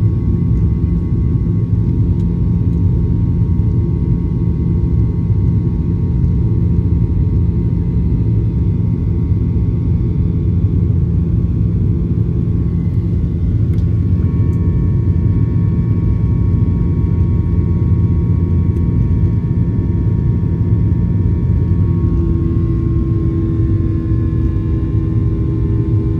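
Boeing 737-800 cabin noise heard from a window seat: a loud, steady rumble of engines and airflow with faint steady engine whines. Near the end the engine tones shift and a new lower hum comes in, as the thrust setting changes.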